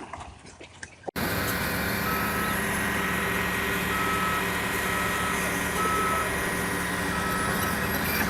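A heavy machine's engine running steadily while its reversing alarm beeps, a short tone about once a second, starting about a second in.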